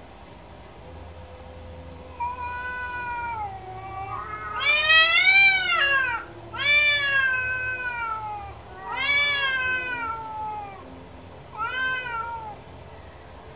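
Domestic cat meowing: about five long, drawn-out meows, each rising and then falling in pitch. The loudest comes near the middle, and a shorter one near the end.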